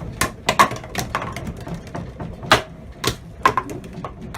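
Rapid, irregular clattering and knocking, with the loudest sharp knocks about half a second, two and a half and three seconds in, over a low rumble.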